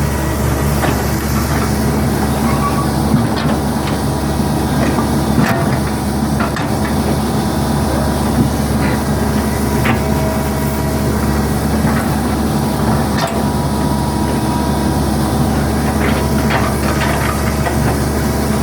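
Hitachi hydraulic excavator's diesel engine running steadily under working load, with occasional sharp knocks as it digs.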